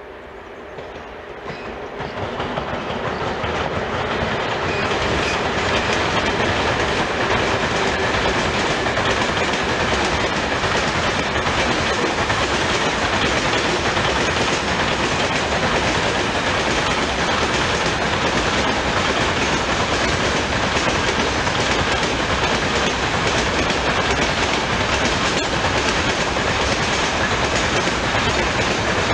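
A freight train hauled by a 2ES4K "Donchak" two-section electric locomotive passing. The sound grows over the first few seconds as the locomotive draws near, then the loaded open wagons roll past steadily, their wheels clattering over the rail joints.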